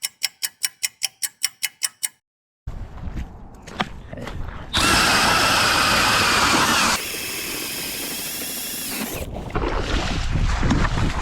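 A power ice auger drilling through ice: its motor runs loudest for a couple of seconds, then drops to a steadier, lower whir. This follows a quick run of even clicks, about five a second, and a brief silence.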